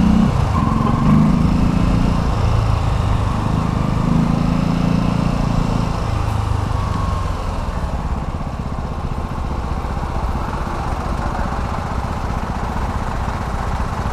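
Motor vehicle engine running in street traffic, a steady low hum that is clearest for the first six seconds, over constant road and wind noise.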